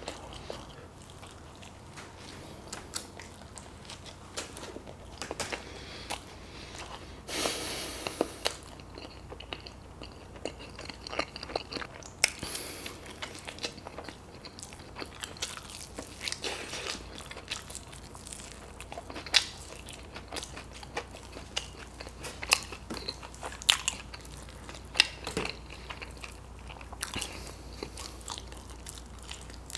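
Close-miked eating: chewing and biting into sauce-covered buffalo chicken wings, with irregular sharp wet mouth clicks and smacks. A louder, noisier stretch of chewing comes about seven seconds in.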